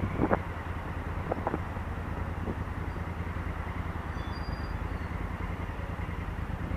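Honda Africa Twin CRF1000L's parallel-twin engine running at a steady speed, heard from on the bike, with a couple of short knocks in the first two seconds.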